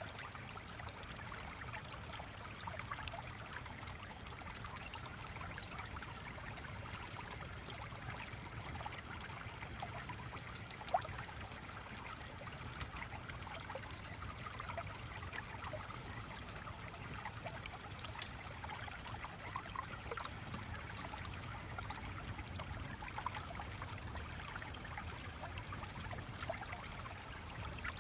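Gentle stream trickling and babbling steadily over a low rumble, with one sharper click about eleven seconds in.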